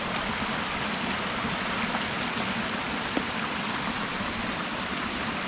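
Creek water rushing over a cascade: a steady, even rush.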